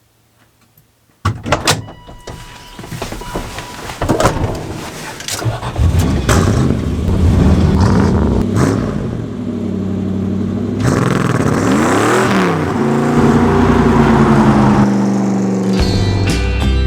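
Dodge D150 pickup's 318 V8 engine starting about a second in, then running and revving up and down. The engine is tired, with worn internals.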